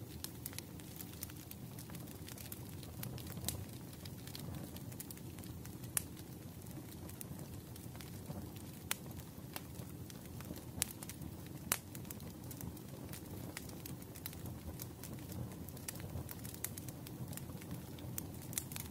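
Wood fire crackling in a fireplace: a steady low rumble with irregular sharp pops and snaps, a few louder pops standing out.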